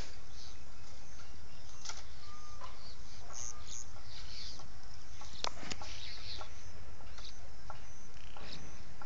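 Steady low rumble with faint, scattered bird calls and chirps.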